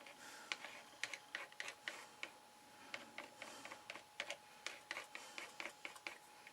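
Faint, irregular small clicks and taps, several a second, from a plastic glue bottle being squeezed and worked along cardboard while card glue is spread.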